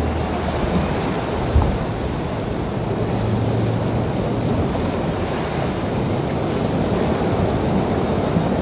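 Sea waves washing in as a steady rush of surf, with a low rumble underneath and a brief low thump about a second and a half in.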